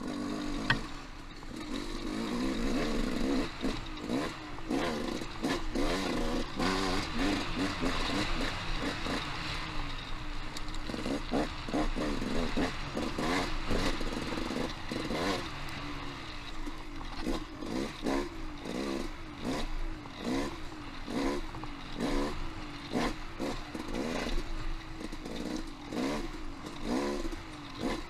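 Dirt bike engine revving up and down over and over as it is ridden along rough singletrack, with frequent knocks and clatter from the bike over rocky ground and a sharp click about a second in.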